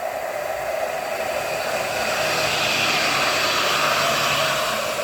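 An Alstom Citadis tram passing close by on the Nottingham Express Transit line: a steady rushing of wheels and traction equipment that swells to its loudest around the middle, then eases off near the end.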